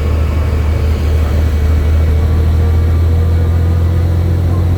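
Helicopter running, a loud steady low drone of its rotor and engine.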